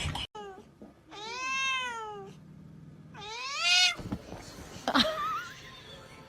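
Domestic cat meowing: a few short calls, then two long drawn-out meows that each rise and fall in pitch, followed by a few faint clicks.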